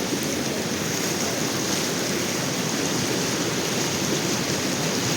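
Steady rushing of a river flowing close by, an even noise with no breaks.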